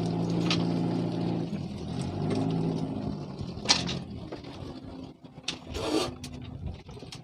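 A motor engine running steadily, fading away about a second and a half in and returning briefly, followed by a few sharp knocks, the loudest just under four seconds in, and a short rustling burst near the end.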